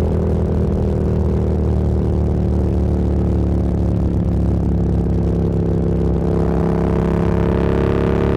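Motorcycle engine running steadily under way, its pitch easing slightly and then climbing in the last couple of seconds as the bike accelerates.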